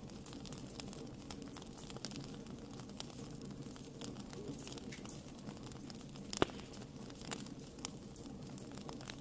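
Wood fire in a fireplace crackling, with irregular sharp pops and one louder pop about six seconds in, over a low steady rumble of the burning.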